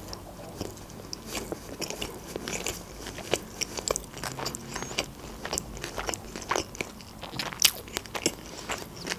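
Close-miked chewing of a mouthful of sushi roll: irregular mouth clicks and soft crunches, with no talking.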